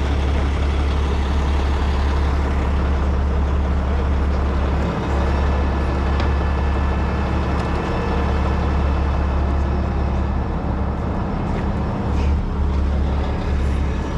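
Heavy truck diesel engine running steadily with a strong low hum.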